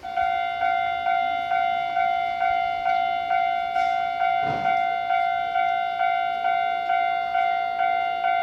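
Railway level-crossing warning bell ringing in an even, repeated ding-ding, about two strikes a second, as a train passes through the station.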